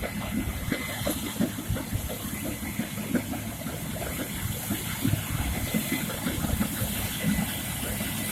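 Harvest machinery running: a steady engine tone under a continuous rattling rush, like grain flowing through machinery.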